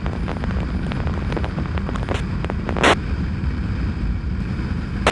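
Motorcycle running at road speed with a steady low wind rumble on the microphone, and a brief burst of scanner radio static about three seconds in.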